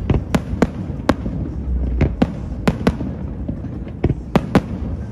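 Fireworks display: aerial shells bursting overhead, about ten sharp bangs at irregular intervals over a low rumble.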